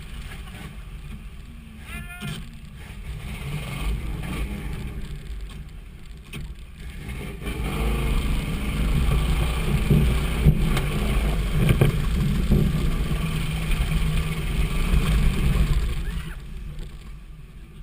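Steady low rumble of a truck's engine heard from inside the cab, growing louder for several seconds in the middle before easing off again, with a brief faint voice about two seconds in.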